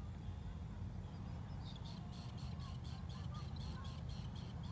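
A bird calling in a fast run of short, high notes, about six a second, starting a little under two seconds in, over a steady low rumble of wind on the microphone.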